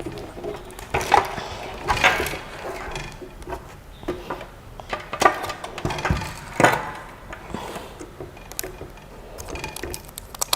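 Parts of a 3D printer being handled out of their packing: irregular knocks, clacks and rustles, with a few louder knocks, the loudest about two thirds of the way through.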